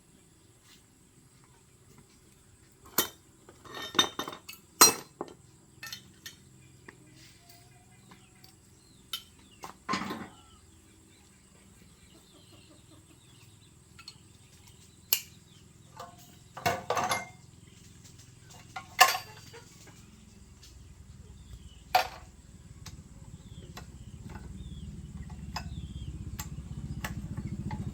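Metal tools and parts clinking and clanking in scattered sharp knocks, a dozen or so, the loudest about four to five seconds in and again around ten, seventeen and nineteen seconds. Over the last several seconds a low engine rumble grows steadily louder.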